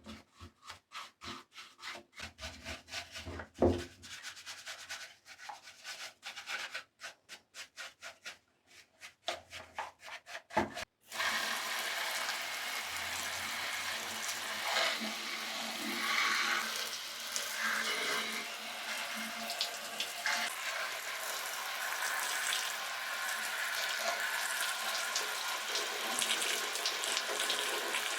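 A small brush scrubbing a diecast toy motorcycle in quick, rhythmic strokes. About 11 seconds in this gives way suddenly to a steady hiss of water spraying over it to rinse it.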